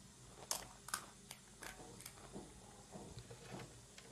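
Panipuri being chewed: about five sharp, crisp clicks and crunches in the first two seconds, then softer mouth sounds.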